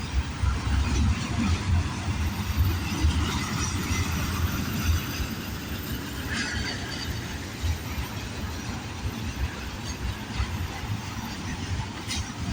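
Freight train of double-stacked containers rolling past at speed: a continuous low rumble and clatter of steel wheels on the rails, with a brief higher-pitched scrape about halfway through.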